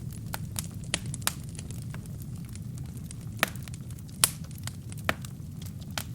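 Wood fire burning in a fireplace: a steady low rumble of the flames with irregular sharp crackles and pops from the burning logs, the loudest pops about three and a half and four seconds in.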